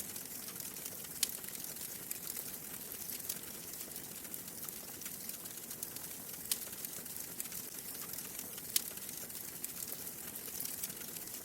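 Wood fire crackling steadily with a soft hiss, and a few sharp pops at intervals of about two to three seconds.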